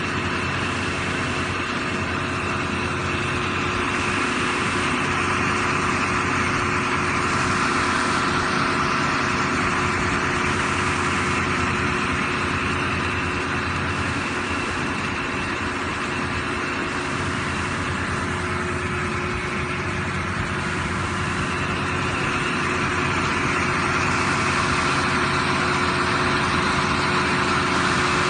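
Sinotruk HOWO fire tanker truck's 340-horsepower diesel engine idling steadily.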